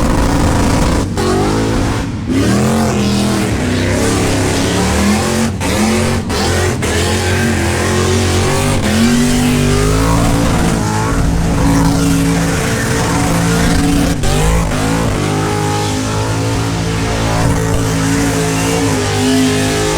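V8 muscle car doing a burnout: the engine is held at high revs, its pitch rising and falling as the throttle is worked, over the steady rush of spinning tires.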